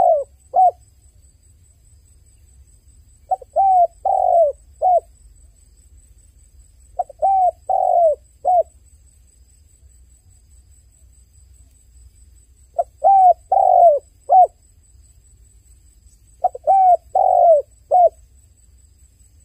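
A dove cooing: short phrases of about four low coo notes, repeated every three to four seconds, four phrases in all.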